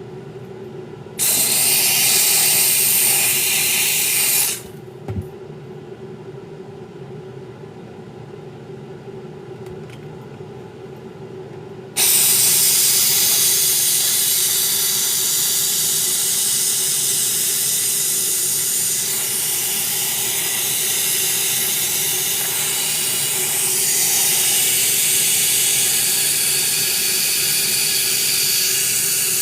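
Hissing jet of pressurized spray from a nozzle: one blast of about three seconds a second in, then a long continuous one from about twelve seconds on, over a steady low hum.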